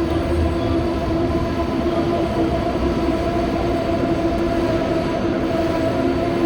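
A passenger train running alongside the station platform: a loud, steady rumble with several held humming tones.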